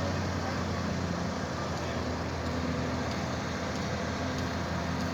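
Drilling rig's engine running steadily at a constant speed, a low even hum with no breaks.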